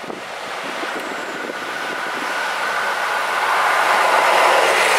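KiHa 183 series diesel express train approaching along the track, its running noise growing steadily louder as it nears. A steady high whine sits over the noise from about a second in.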